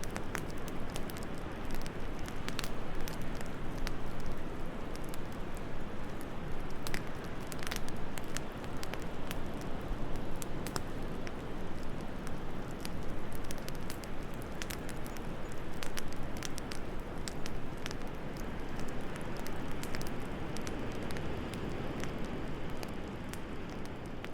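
Wood fire crackling, with scattered sharp pops over a steady rushing hiss of wind.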